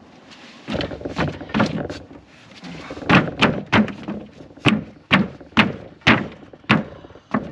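Wooden 2x4 board being knocked into place between coop framing members. After a stretch of scraping and uneven knocks, there is a run of solid thuds about two a second until the board seats.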